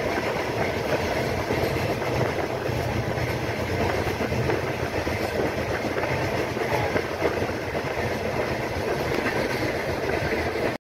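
Saraighat Express passenger train running at speed, heard from inside the moving coach: a steady rumble and rush of the wheels rolling on the track.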